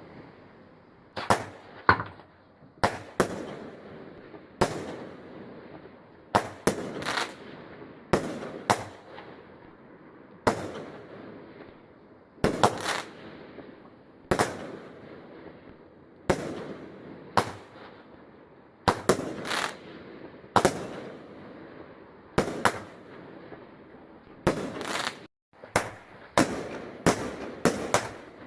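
Fireworks exploding in a long series of sharp bangs, roughly one every second or two and sometimes in quick clusters, each followed by a fading echo.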